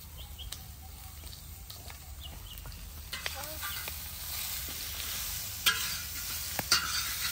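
Chicken feet frying in a wide iron pan over a wood fire, the sizzle growing louder from about three seconds in as a metal slotted spatula stirs and scrapes them. Sharp clinks of the spatula against the pan come a few times near the end.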